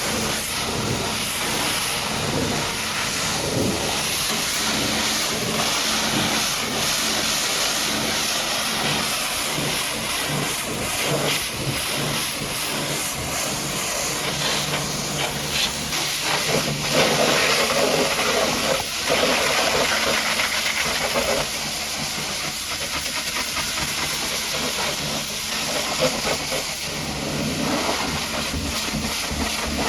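Pressure washer's high-pressure water jet spraying the truck: a steady hiss that grows louder and fuller for a few seconds past the middle.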